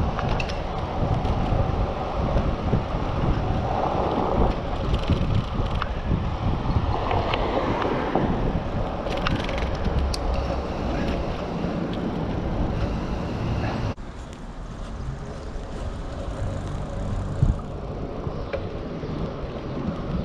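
Wind buffeting a GoPro action camera's microphone while riding a bicycle, with tyre and road rumble underneath and a few light clicks. The wind noise drops suddenly about two-thirds of the way through.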